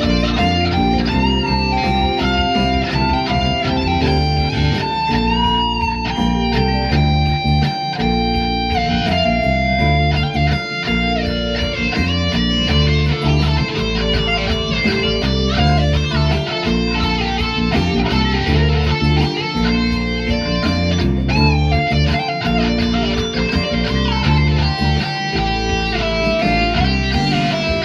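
Instrumental music: an electric guitar plays a melody with bent and wavering notes over a bass line and a steady beat.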